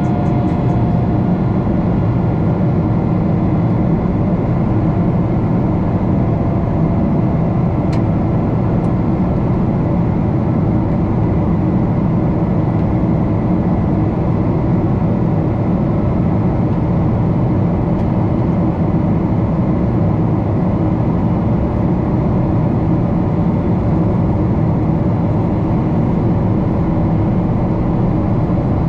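Steady jet engine and airflow noise inside the cabin of a Boeing 777-300 airliner, loud and unchanging.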